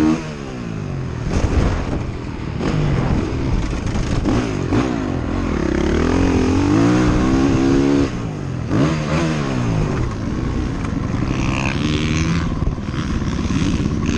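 Off-road vehicle engine being ridden hard, its pitch repeatedly climbing as it revs up and dropping suddenly as the throttle is let off or a gear changes.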